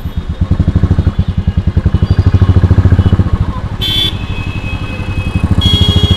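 Royal Enfield motorcycle's single-cylinder engine running under way, with a fast, even pulsing beat. Vehicle horns honk briefly about two-thirds of the way in and again near the end.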